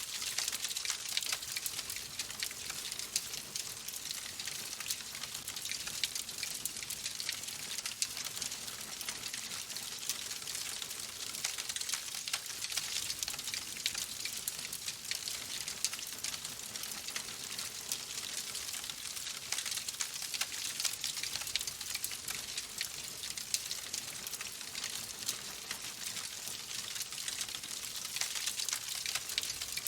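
Wood fire crackling in a fireplace: a steady hiss scattered with many small, sharp pops and snaps.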